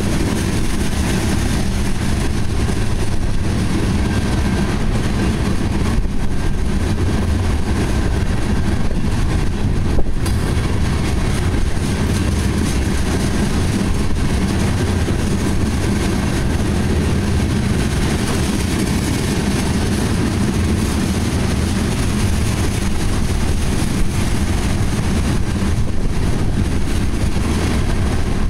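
Tank cars of a freight oil train rolling by: a steady rumble of steel wheels on the rails, with one sharp knock about ten seconds in.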